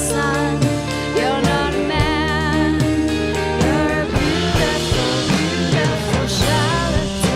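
Live rock band playing a song: guitars, bass and drums with a woman's wavering lead vocal over a steady beat.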